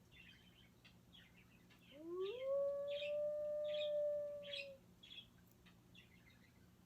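A recorded wolf howl played through an Amazon Alexa smart speaker: one long howl that rises in pitch about two seconds in, then holds steady before fading near five seconds. Short high chirps repeat throughout the recording behind it.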